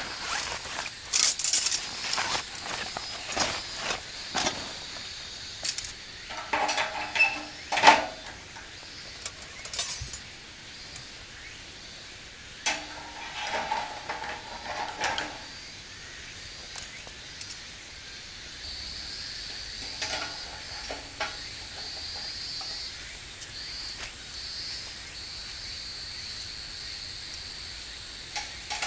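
Camping gear being handled: a run of knocks and clicks, with two short spells of ringing metal clinks, then fewer knocks over a steady high hiss.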